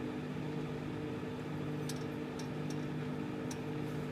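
Microwave oven running with a steady hum while heating an egg, with a few faint ticks in the second half.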